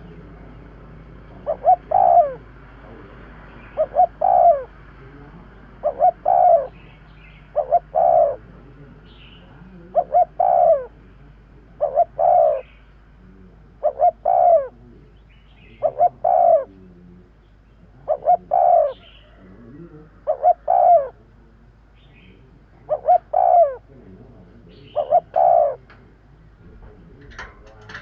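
Spotted dove cooing over and over, one phrase about every two seconds, each a short note followed by a longer one. Faint high chirps from another bird sound in between.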